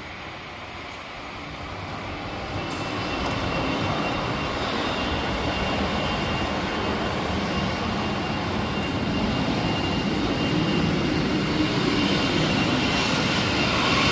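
Light aircraft engine running, growing steadily louder from about two seconds in.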